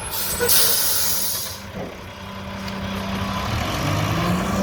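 Garbage truck's air brakes releasing with a loud hiss about half a second in, then its diesel engine revving up with rising pitch near the end as the truck pulls away.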